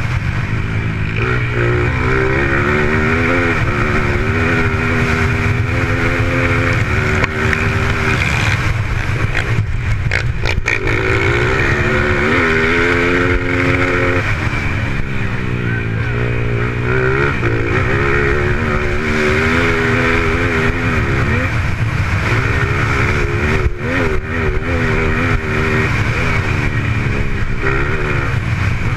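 Racing dirt bikes running on a velocross track: engines revving up through the gears and backing off again, over and over, with a constant low rumble underneath.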